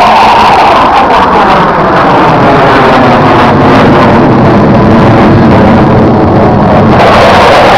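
Thunderbirds F-16 jet making a low pass, its engine very loud throughout, with the pitch sliding down as it goes by in the first couple of seconds and again near the end.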